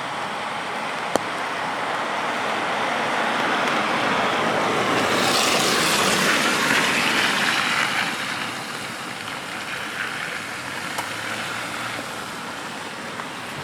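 A car passing on a wet road: its tyre hiss swells over a few seconds around the middle and fades away, over a steady hiss of rain. A sharp click about a second in.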